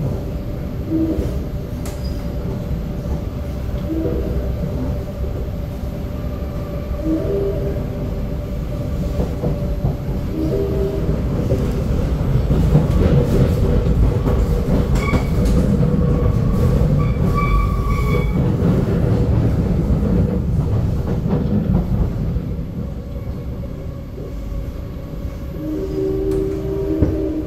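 SMRT C751B electric train running, heard from inside the car: a steady rumble of wheels on the track with humming motor tones that shift in pitch. It grows louder for several seconds in the middle.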